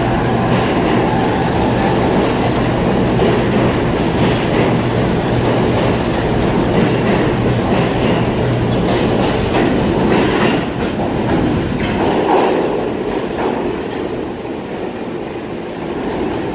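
R68 subway train running along the track, its wheels clattering over the rail joints over a steady low hum. About twelve seconds in the hum drops out and the train noise fades.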